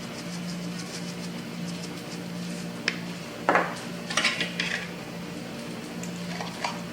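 Kitchenware clinking: a few sharp knocks of dishes and utensils about halfway through, the loudest about three and a half seconds in, over a steady low hum.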